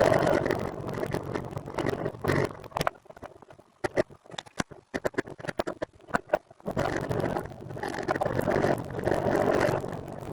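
Ride noise from a recumbent trike rolling along: a steady rush of wind and tyre noise. From about three seconds in it drops away for a few seconds, leaving a run of irregular light clicks and rattles, then the rush returns.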